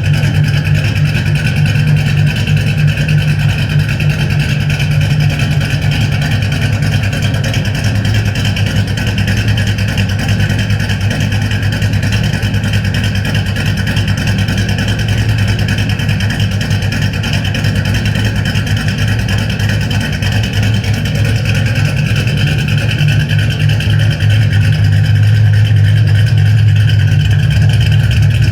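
2006 Ford Mustang running through Spintech aftermarket mufflers: a steady, loud, deep exhaust drone that grows a little louder late on.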